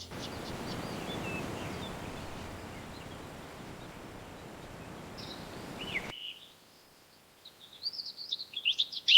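A steady rushing ambient noise with a few faint bird chirps, which cuts off suddenly about six seconds in. Then a bird's rapid high chirps start and grow louder near the end.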